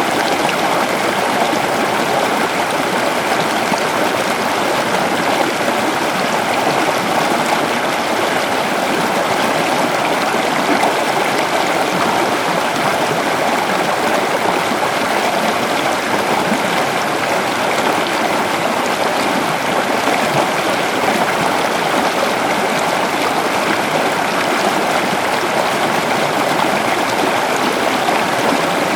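Shallow river flowing over stones, a steady rushing and babbling of water.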